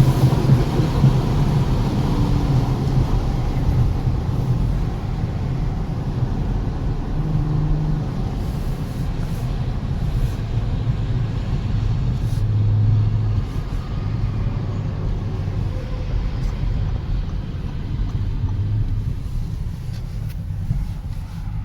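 2019 Audi S5 Sportback's turbocharged V6 running under way, a steady low rumble mixed with road noise, easing slightly in loudness toward the end.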